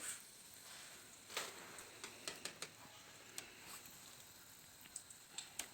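Faint sizzling with irregular sharp pops and crackles from a pastel frying in hot oil in a pan over a fireplace wood fire.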